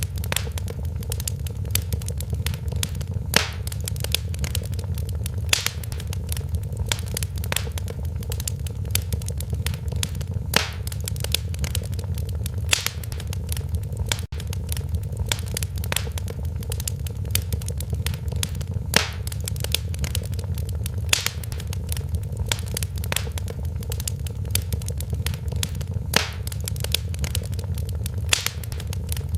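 Fire crackling in a fireplace: many small crackles and a sharper pop every two or three seconds over a steady low rumble of the flames.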